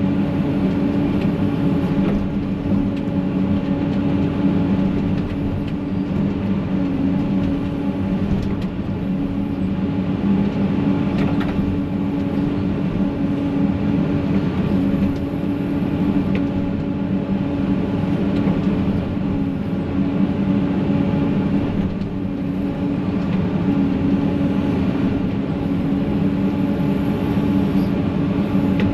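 Heavy diesel engine running steadily at a constant pitch, with a few faint knocks now and then.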